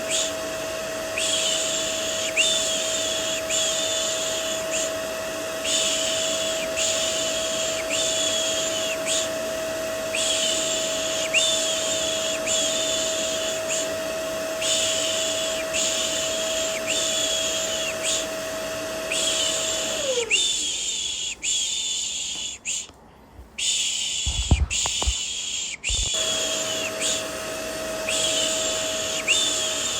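Vacuum cleaner running with a steady motor whine under repeated rhythmic 'shh' shushing strokes. About twenty seconds in, the vacuum's pitch falls and it cuts out, the shushing briefly drops away, a few low thumps follow, and the vacuum comes back on near the end.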